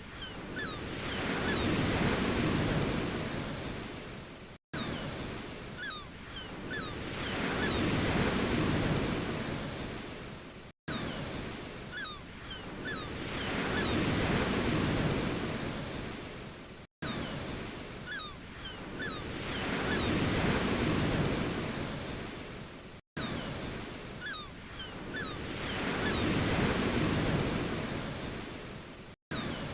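Ocean waves breaking and washing in, each one swelling and fading about every six seconds. The same short wave recording repeats in a loop, with a brief cut to silence between repeats.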